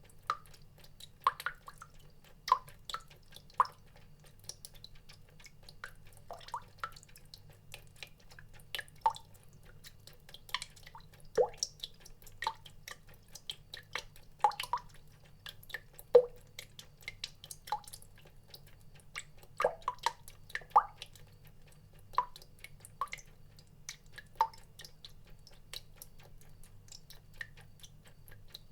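Water dripping in single, irregularly spaced drops, roughly one a second, each a short pitched drip, over a faint steady low hum.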